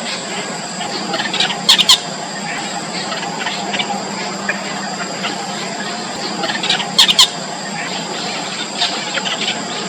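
Nestlings about four days old begging with short, high cheeps, breaking into two loud bursts of calling, about two seconds in and again about seven seconds in, typical of the parent bird arriving to feed them.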